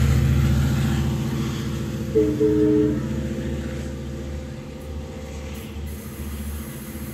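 Diesel train passing, its low engine rumble fading away, with a brief horn blast about two seconds in.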